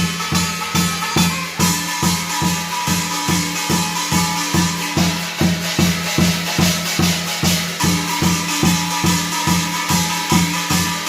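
Korean shaman ritual (gut) music: a drum beaten in a steady beat of about three strokes a second, under a piri, a double-reed pipe, holding reedy notes that shift pitch twice, with a jingling rattle above.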